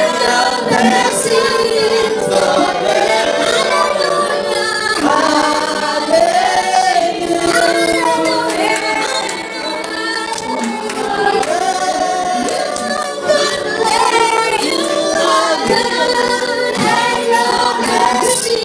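A choir and congregation singing a gospel praise chorus together, a victory chant, steady and full throughout.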